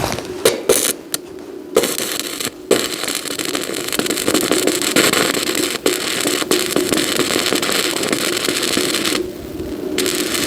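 Electric arc welding: the arc crackles and sputters in a few short strikes, then burns steadily for about six seconds, breaks off near the end and is struck again.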